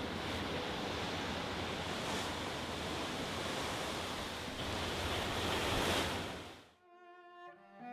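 Steady rushing noise of wind and sea, which fades out about a second before the end as quiet music begins.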